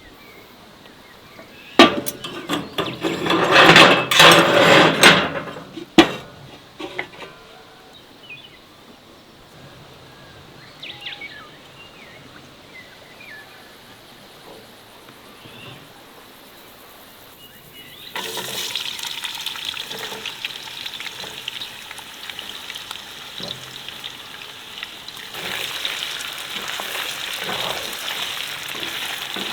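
Food sizzling in a hot frying pan, starting suddenly past the middle and running steadily, a little louder for the last few seconds. A few seconds of loud clattering and rustling with sharp clicks come near the start.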